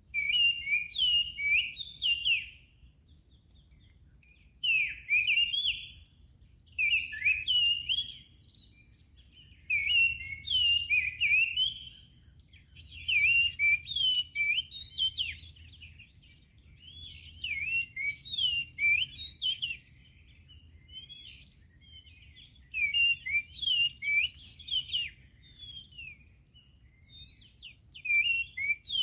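Songbird singing in repeated short bursts of quick, whistled, rising and falling notes, each phrase lasting one to two seconds with brief pauses between them.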